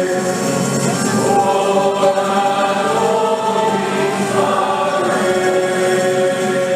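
Choir singing a hymn, voices holding long notes that change every second or two.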